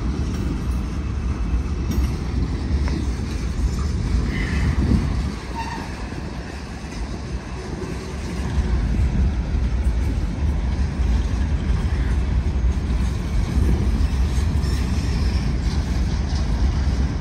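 Freight train cars rolling past close by: the steady noise of steel wheels running on the rails.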